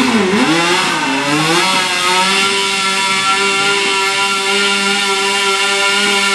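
Mini modified pulling tractor's engine at very high revs under load, its pitch swinging down and up for the first second and a half, then held steady at a high, even note near its rev limit.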